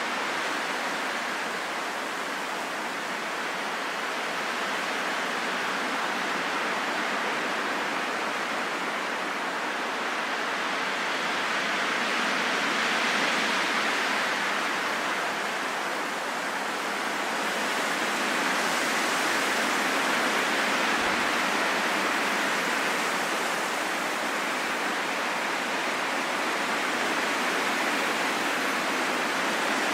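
Wind blowing as a steady rushing noise that slowly swells and eases, with stronger gusts about halfway through and again about two-thirds in.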